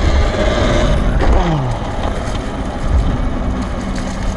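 Wind buffeting the microphone while riding an electric dirt bike, with the motor's whine falling in pitch about a second in and then holding a steady tone.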